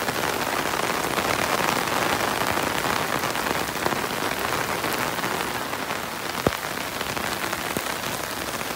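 Steady rain falling on pavement, lawns and a residential street, an even hiss, with one short sharp tap about six and a half seconds in.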